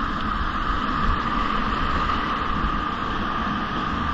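Steady rush of whitewater in a river rapid, with wind buffeting the microphone.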